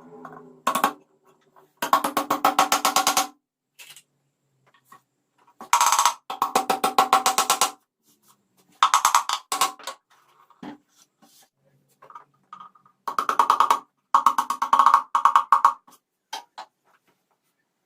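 A 1960s manual machine's mechanism clattering in quick runs of clicks, about a dozen a second. Each run lasts one to two seconds, with short pauses between.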